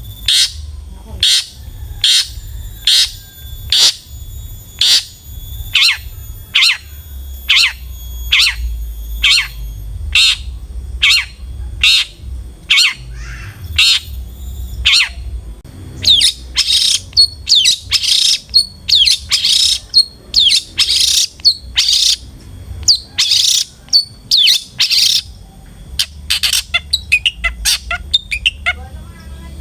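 Long-tailed shrike (cendet) giving a long series of harsh, rasping calls. They come about two a second at first, then louder and closer together about halfway through, and break into a fast chatter near the end. A steady low rumble runs underneath.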